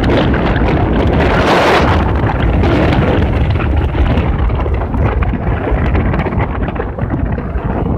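Wind rushing and buffeting over a phone microphone on a moving motorbike, with the bike's engine running underneath.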